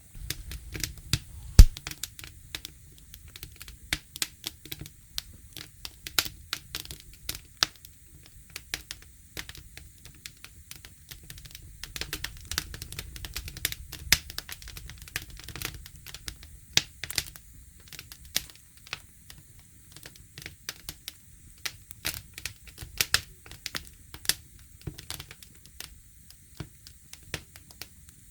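Campfire crackling: burning wood snapping and popping in irregular sharp clicks over a low steady rumble, with one loud pop about a second and a half in.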